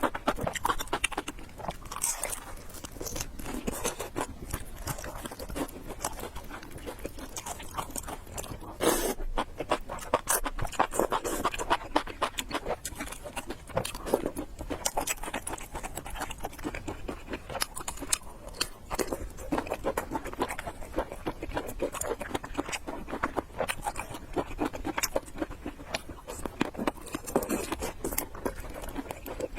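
Close-miked eating: a person chewing food with dense, rapid wet clicks and smacks, with a louder burst about nine seconds in.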